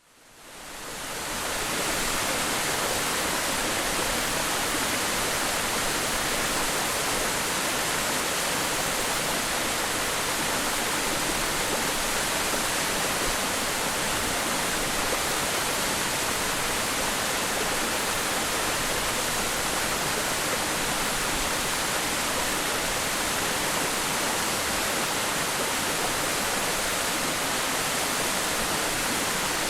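Ichijō Falls waterfall pouring, a steady, even rush of falling water that fades in over the first couple of seconds and then holds level.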